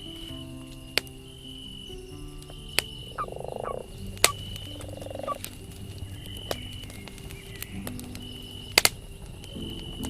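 Campfire crackling, with sharp single pops every second or two and a quick double pop near the end. Two short croaking calls sound about three and five seconds in, over a repeating high chirp.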